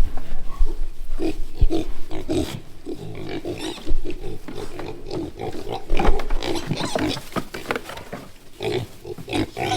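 A group of freshly woken pigs grunting and squealing, many short irregular calls overlapping one another.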